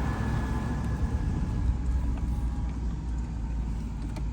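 Steady low rumble of a small vehicle being driven, heard from on board.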